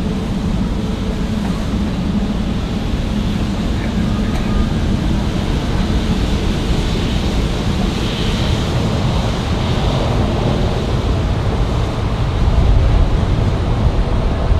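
Jet airliner engines rumbling steadily as a plane passes close by, swelling slightly louder near the end.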